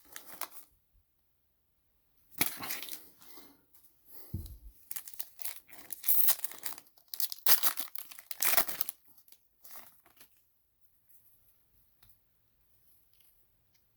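Plastic wrappers of trading card packs being torn open and crinkled in irregular bursts, with a dull thump about four seconds in.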